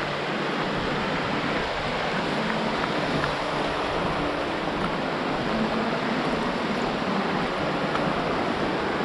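Rushing water of a stream or waterfall: a steady, even roar that does not change.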